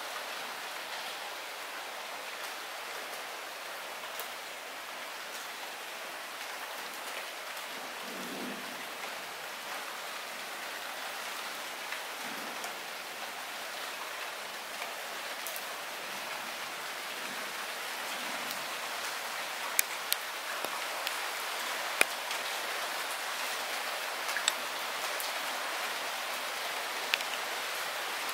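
Light rain falling steadily, a soft even hiss with scattered sharp drips close by. It grows a little heavier about two-thirds of the way through, with more drip ticks.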